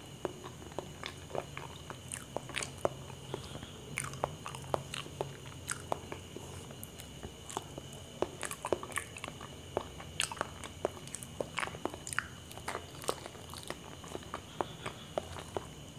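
Close-miked eating of small ripe bananas: wet chewing and irregular lip-smacking clicks, with the light rustle of a banana being pulled off the bunch and peeled.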